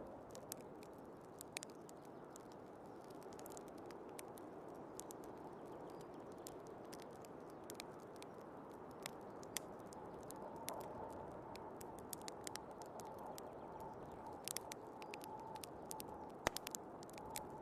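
Wood fire crackling and popping in a fireplace, with sharp snaps scattered throughout, over the steady rush of a snowstorm wind. A faint whistle of wind comes in about halfway through.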